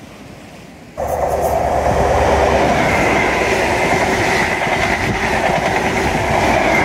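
Passenger train passing close by on the seawall railway line, arriving suddenly about a second in: a loud, steady rush of wheels on rail with a high steady whine over it.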